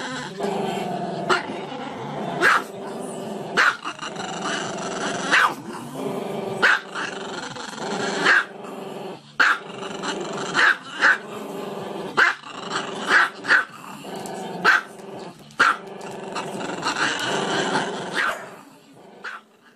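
Small dog howling in long drawn-out notes, broken by short sharp barks about once a second, trailing off near the end.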